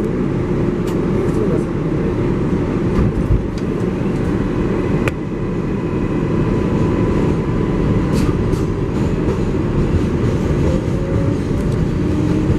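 Inside an R188 subway car of the 7 train running between stations: a steady rumble of wheels on rails, with scattered sharp clicks.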